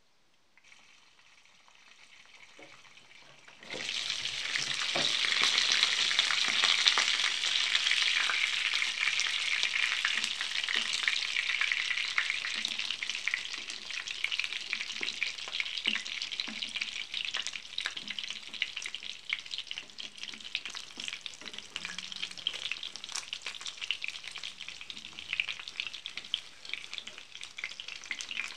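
Meat-filled pirozhki frying in hot oil in a pan: a faint hiss at first, then about four seconds in a sudden loud, steady sizzle full of small crackling pops that keeps on.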